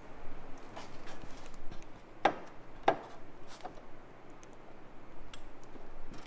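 Scattered light clicks and knocks of hand tools and bolts being worked on the car's rear panel, with two louder knocks a little over two and about three seconds in.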